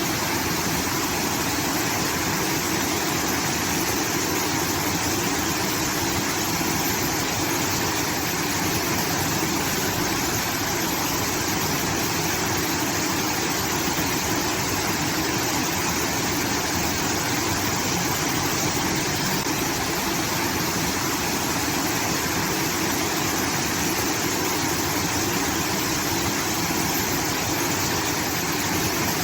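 Water rushing steadily from a rice-field irrigation outlet, a continuous waterfall-like roar with no change in level.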